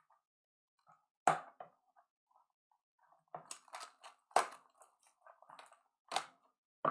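Trading-card boxes and packs being handled and opened: several sharp clicks and knocks, about 1.3, 3.5, 4.4 and 6.2 seconds in and again at the end, with soft rustling of packaging between them.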